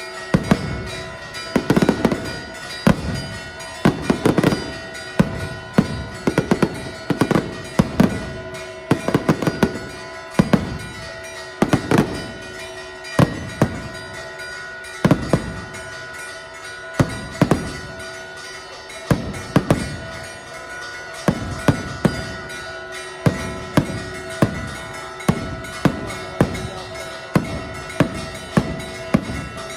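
Fireworks display: shells bursting in a continual series of sharp bangs, one to several a second, some in quick clusters.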